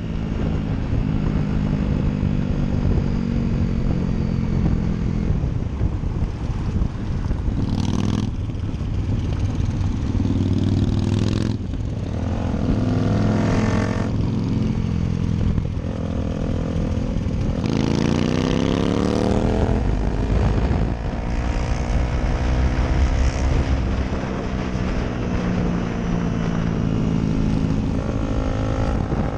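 Motorcycle engine under way, heard from the rider's position. It revs up and drops back several times as it shifts through the gears, over a steady rush of wind noise.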